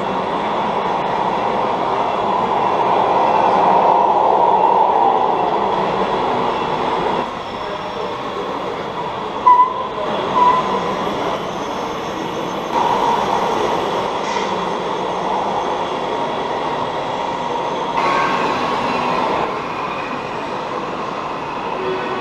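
Steady whirring of electric motors and gearboxes on radio-controlled model trucks, swelling for a few seconds early on. Two short squeaks come about ten seconds in.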